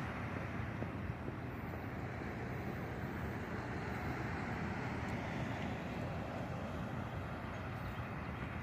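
Steady city street traffic noise: cars driving by.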